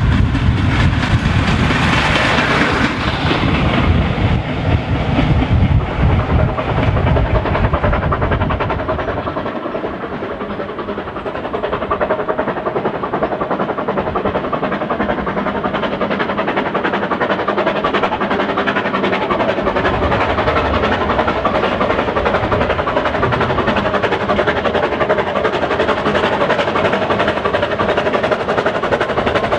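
Narrow-gauge train running on the line, with a heavy low rumble for the first eight or nine seconds, then a steadier running noise with wheels on rail.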